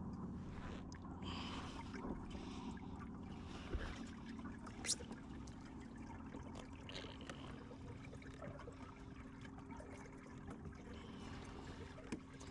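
Faint water trickling and lapping around a kayak, with a few small clicks and taps.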